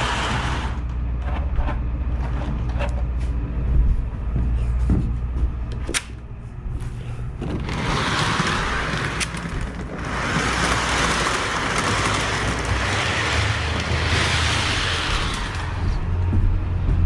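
Model train running on a layout: a steady low rumble, with a hissing noise for the first second and again from about eight seconds until near the end, and a few light clicks in the quieter stretch between.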